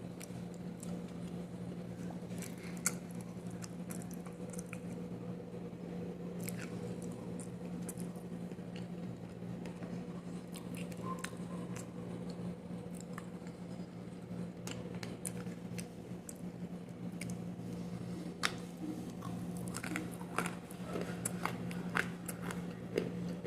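Close-miked biting and chewing of kaolin clay pieces: scattered crisp crunches and clicks, busier over the last few seconds, over a steady low hum.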